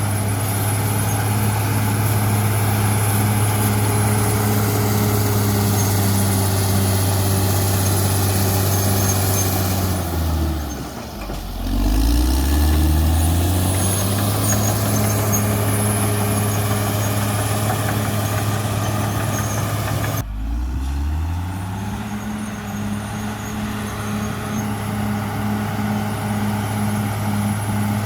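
CAT D6R XL bulldozer's diesel engine running steadily under load. Its speed sinks and winds back up about a third of the way in, then drops suddenly again past two-thirds of the way and recovers.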